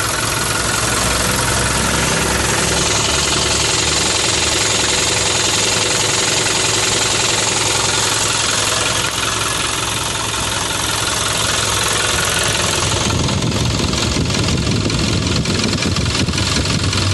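Mitsubishi Canter FBA50's 4P10 four-cylinder turbo-diesel engine idling steadily. About thirteen seconds in, the high hiss drops and the low rumble gets stronger.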